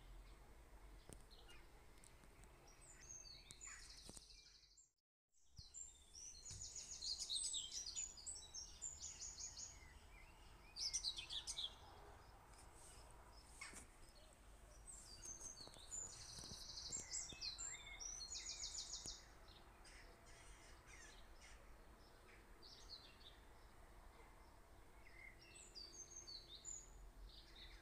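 Small songbirds chirping faintly in the background, with several quick trills of rapidly repeated notes, over a faint low hum.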